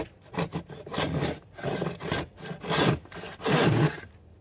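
Hand plough plane cutting a groove in a wooden board: a run of short rasping strokes as the iron shaves wood, the longest stroke near the end.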